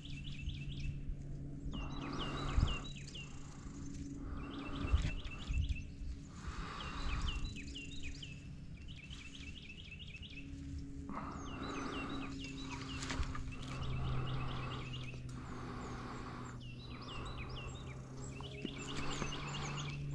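A songbird singing short, fast trilled phrases over and over, roughly one every two seconds, over a steady low hum. A dull thump comes about two and a half seconds in and another about five seconds in.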